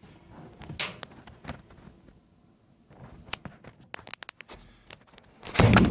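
Fireplace fire crackling, with scattered sharp pops across the middle, then a sudden loud thud-like burst near the end.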